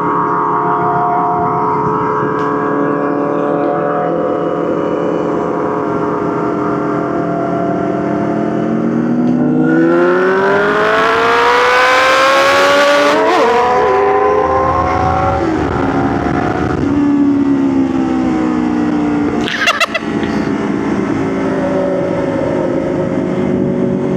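Motorcycle engine running at a steady cruise, then accelerating hard with its note rising through the gears, before dropping back and settling to a lower steady note near the end. A brief clatter comes near the end.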